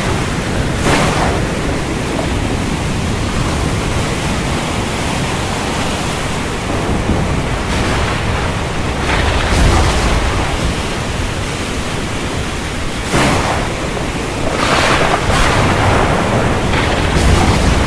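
Heavy rain pouring steadily in a thunderstorm, with deep rumbles of thunder and several short, sharper surges of louder noise in the middle and near the end.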